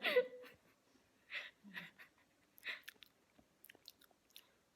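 A person tasting a spoonful of Cheez Whiz: a short hum at the start, then soft breaths and lip smacks, with faint mouth clicks toward the end.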